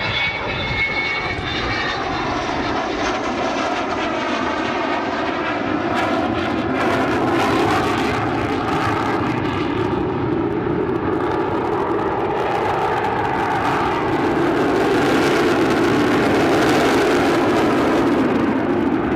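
Aircraft engine running loud during a display flypast, its pitch slowly sliding and its level growing louder in the second half.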